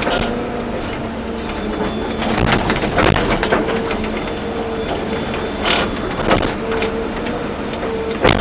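Volvo EC240B excavator running under load: a steady engine and hydraulic drone with a whine that keeps cutting in and out, and several sharp knocks and clanks, the loudest near the end.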